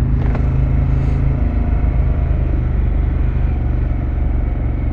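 V-twin engine of a Harley-Davidson Pan America running steadily through a Vance & Hines exhaust, with a deep even pulse.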